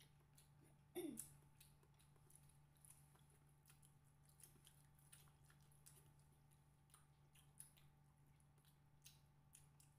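Faint chewing and soft mouth and finger clicks of people eating rice and pork by hand, with a brief falling hum-like vocal sound about a second in. A low steady hum runs underneath.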